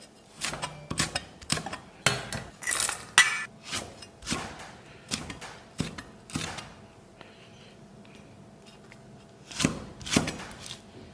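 Kitchen knife and cutting board knocking, with dishes and utensils clinking, in irregular taps. There is a pause of about three seconds, then a few more knocks near the end.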